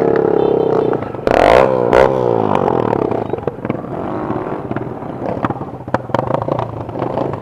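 Motorcycle engine running, with a brief loud rev, the pitch sweeping up and down, about a second and a half in, then settling to a lower, steady running sound with scattered clicks and rattles.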